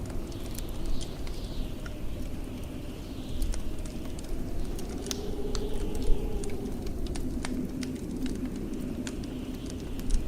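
Wood fire crackling in a fireplace, with many sharp pops and snaps over a low rumble, and blizzard wind howling, its moan rising and falling in the middle.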